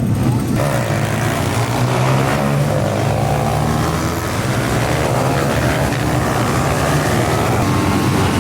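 Bucci supermoto pit bike engine running steadily, with a broad rushing noise joining over it about half a second in.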